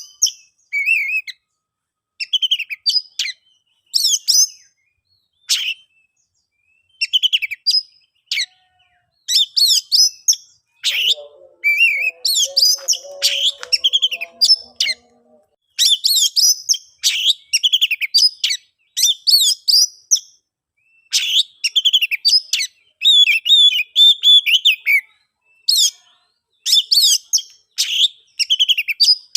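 Oriental magpie-robin (kacer) singing loudly: short, varied whistled and chirped phrases in quick succession, each broken off by a brief pause.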